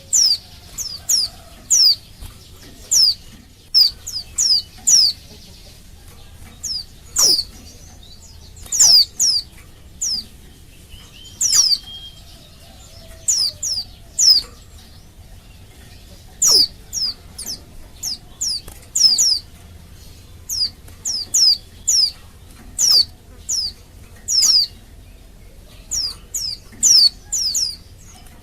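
Female white-eye (pleci) calling: short, high notes that each slide downward, given singly and in quick runs of two to four at irregular intervals. This is the female's call to males, used to provoke male white-eyes into singing.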